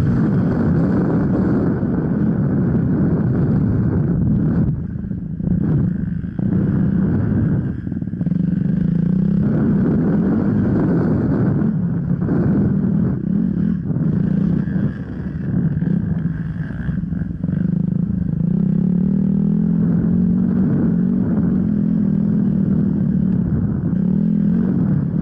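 Off-road motorcycle engine running hard, its pitch rising and falling with the throttle. The engine drops off briefly several times before pulling again.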